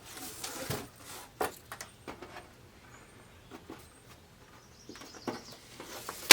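Handling noises as an LED backlight strip is fitted between guide pins in the TV's back panel: a brief rustle in the first second, then scattered light clicks and taps, with a sharper click at the end.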